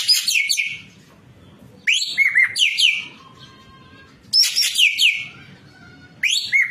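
Ekek keling bird calling in loud bursts of several quick, sharp notes, each note sliding down in pitch, with a burst about every two seconds.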